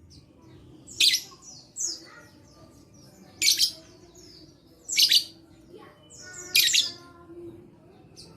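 Lovebird giving five loud, shrill shrieks about a second and a half apart, with softer short falling chirps in between.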